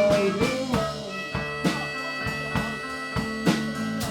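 Live blues band playing between sung lines: a drum kit keeping a steady beat under guitar, with long held harmonica notes.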